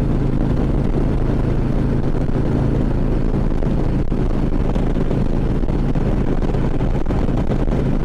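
Harley-Davidson Ultra Classic Limited's V-twin engine running steadily while riding, with wind rushing over the helmet microphone.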